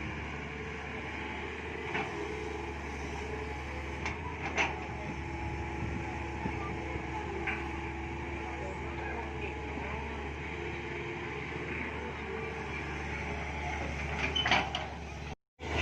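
Mini excavator's diesel engine running steadily, with a wavering mid-pitched whine and a few scattered knocks from the digging. The sound cuts out for a moment near the end.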